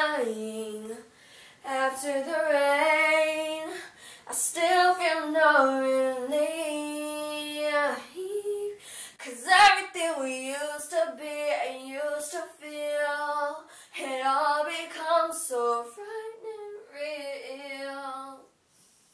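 A female voice singing unaccompanied, a series of long held notes that bend and waver in pitch, broken by short breaths, and dying away near the end.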